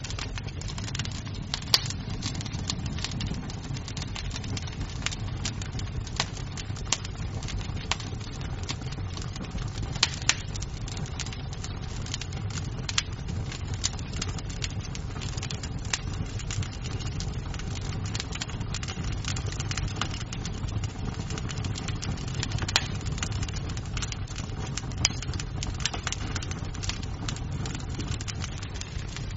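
Wood fire crackling in a fireplace: a steady low rumble of burning with sharp, irregular pops and snaps of the burning wood.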